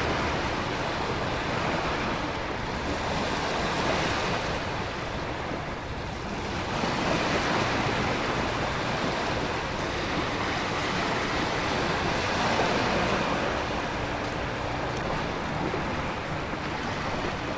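Storm ambience of ocean surf and wind: a steady rushing noise that swells and eases every few seconds.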